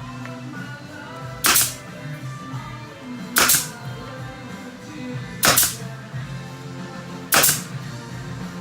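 Four sharp, loud bangs about two seconds apart, evenly spaced like a tool being fired again and again, over music playing underneath.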